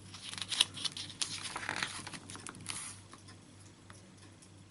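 Paper rustling and small clicks for about three seconds, as a page of a picture book is turned, then it goes quiet.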